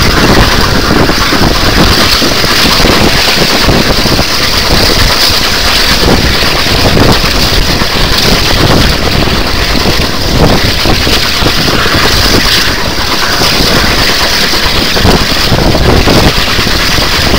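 Passenger train running, heard from an open carriage window: a steady loud rumble of the train with wind buffeting the microphone.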